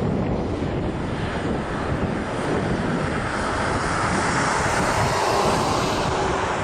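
Airplane engine noise, a steady rushing drone that swells louder about four seconds in, as of an aircraft passing close.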